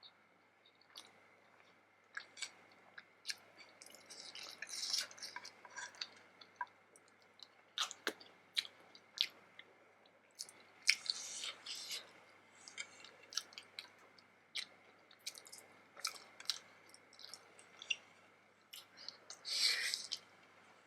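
Chewing vegetable momo dumplings close to the microphone: scattered wet mouth clicks and smacks, with a few longer, noisier stretches of chewing, a loud one near the end.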